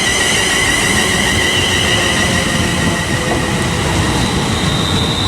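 Class 350 Desiro electric multiple unit arriving at a platform: a steady rumble of the train with a high-pitched electric whine of several tones, a higher tone joining near the end.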